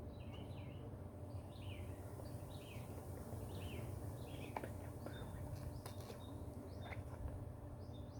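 Birds chirping in many short, quick calls, over a low steady hum.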